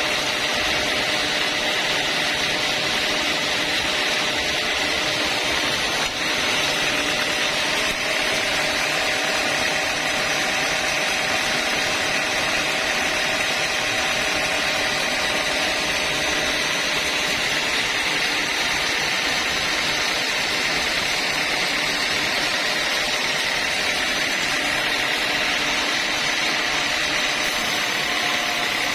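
Sawmill saw running steadily through a long straight cut in a log, sawing it lengthwise into planks.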